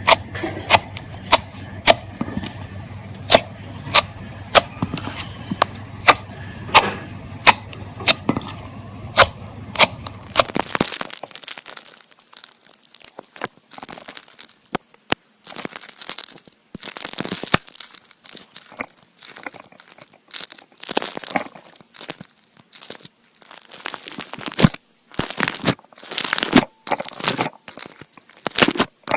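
Slime being pressed and squished by hand, with a run of sharp, loud pops from trapped air, about two or three a second. About ten seconds in it changes to irregular crackling squishes with short pauses between them.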